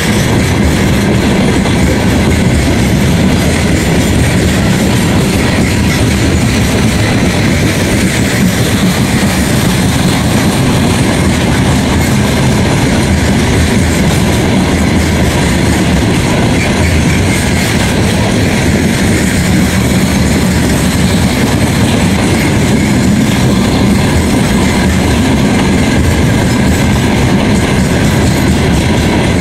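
Freight train of open-top gondola wagons rolling past at close range: a loud, steady rumble of steel wheels on the rails.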